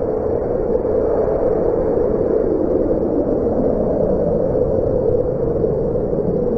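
Steady roar of a nuclear explosion's fireball, even and unbroken.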